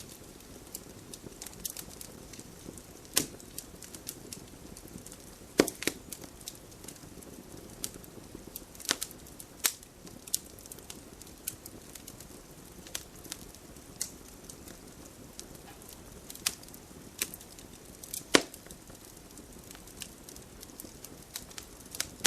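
Wood fire crackling: a soft steady hiss with sharp pops and snaps at irregular intervals, a few of them much louder than the rest.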